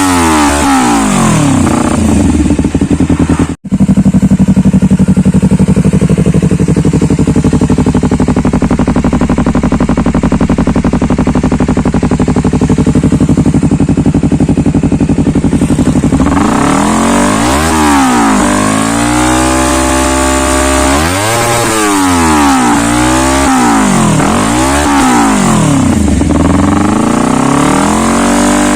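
Honda CBR250RR parallel-twin engine breathing through a stainless Triton GT-5 aftermarket exhaust, revved without words: a couple of throttle blips, a brief break, then held at a steady high rev for about twelve seconds. A run of five quick throttle blips follows before it settles to a steady idle.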